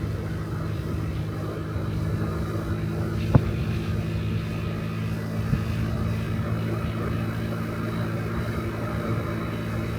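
50cc Honda Dio Cesta AF68 scooter's single-cylinder four-stroke engine running steadily while riding, with one sharp knock about three seconds in.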